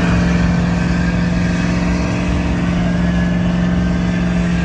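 Truck engine revved up and held at steady high revs, giving a sustained loud drone with a constant pitch.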